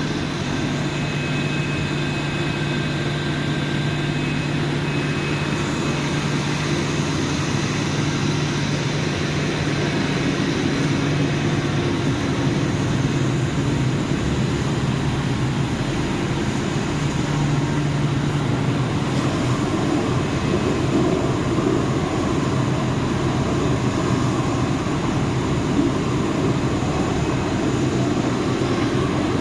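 Hot oil boiler plant running: a continuous mechanical roar with a steady low hum.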